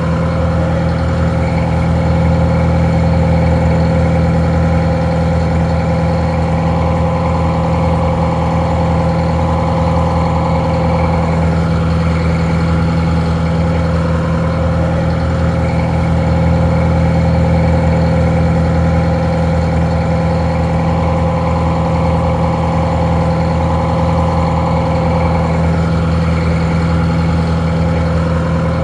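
Detroit Diesel 4-71 two-stroke diesel engine idling steadily, a loud, even, somewhat muffled drone.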